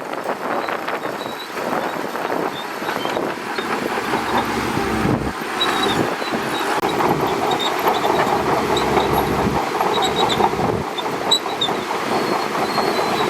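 Shantui DH17C2 crawler bulldozer working: its diesel engine runs steadily under the clatter of the steel tracks, with short high squeaks from about halfway through.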